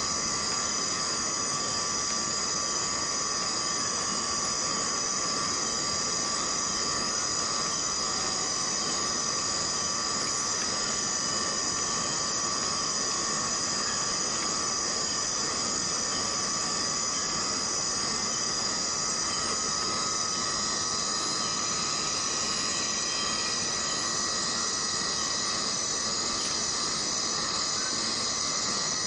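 Forest cicadas in a continuous chorus: a steady high-pitched buzzing, with a fainter, lower steady tone underneath.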